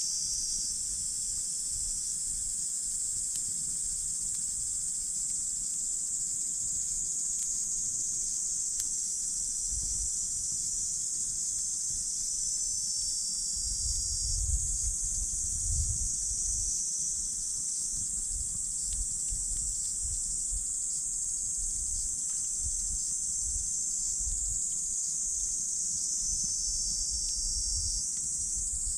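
Night insects, crickets or the like, trilling steadily in a high-pitched chorus, with a second trill that comes and goes in phrases. A few faint crackles from a wood campfire, and a low rumble about halfway through.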